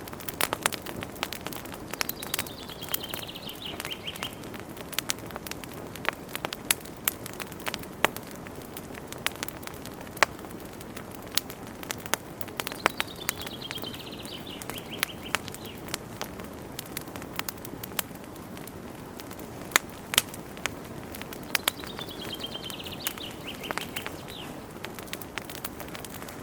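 Wood fire crackling in a fireplace, with frequent sharp pops and snaps over a low steady hiss. Three times, about ten seconds apart, a bird sings a short phrase of notes falling in pitch, each lasting about two seconds.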